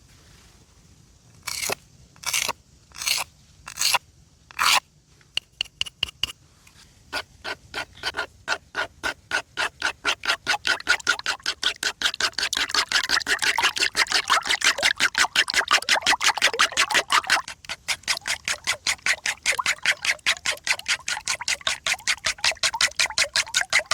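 Eggs being beaten in a bowl with fast, regular strokes, about five a second, that grow louder about halfway through. A few separate sharp knocks come before the beating starts.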